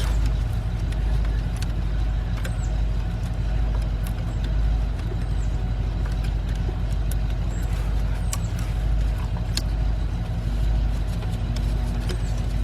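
Steady low rumble with gentle swells, with scattered light clicks and taps of hands and plastic as the cylinder 2 ignition coil connector is worked loose deep in the engine bay.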